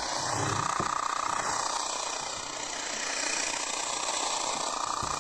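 Radio receiver putting out steady static and hiss, with a faint wavering tone under it: no clear station is coming through at this setting.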